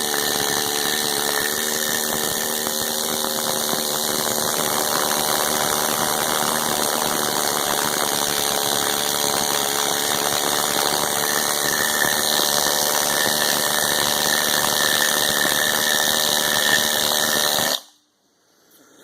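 Power tool running steadily as it strips old paint from a small block Chevy engine block, then cutting off abruptly near the end.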